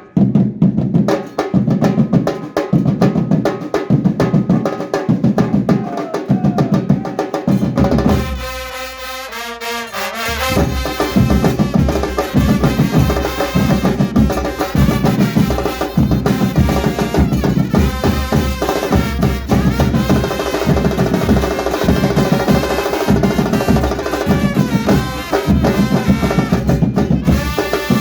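Murga percussion band playing: bass drums and snare drums beat a steady, driving rhythm. About eight seconds in the drums drop out for a couple of seconds, then the band comes back in with sustained pitched tones over the drumming.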